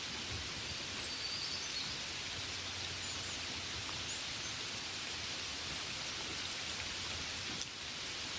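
Steady gentle rain falling on a window.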